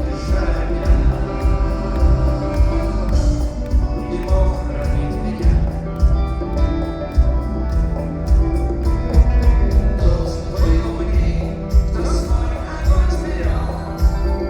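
Rock band playing live: full band with heavy bass and a steady drum beat, with a voice singing over it.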